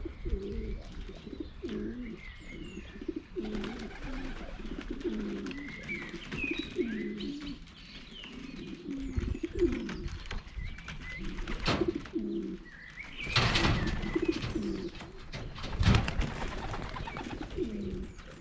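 Young racing pigeons cooing at their loft: a continuous burble of many overlapping low coos, with small high chirps over it. A few louder rustling noises stand out about two-thirds of the way through.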